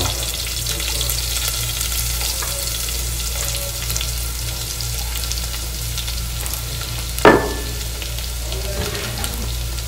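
Garlic and cumin seeds sizzling and crackling steadily in hot oil in an aluminium pot. About seven seconds in comes one sharp metal clink with a short ring, the loudest moment.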